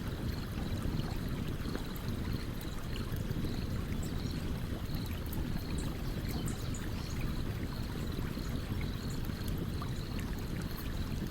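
Stream water running steadily, with small sharp crackles from a wood campfire scattered throughout.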